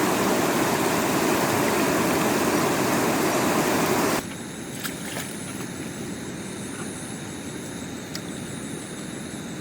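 Rushing stream water, loud and steady, cutting off abruptly about four seconds in. What follows is a much quieter background with a faint, high tone that comes and goes and a few small clicks.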